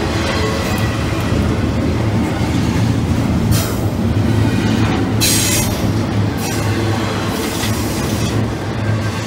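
Double-stack intermodal train of container-laden well cars passing close by at speed: a steady rumble of steel wheels on rail. Several brief high-pitched screeching bursts come from the wheels, at about three and a half, five and eight seconds in.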